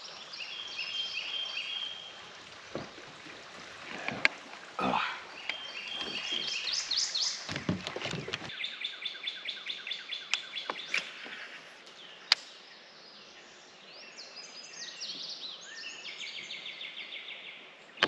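Songbirds chirping and trilling in rapid runs of short repeated notes, with two sharp knocks, one about four seconds in and one about twelve seconds in.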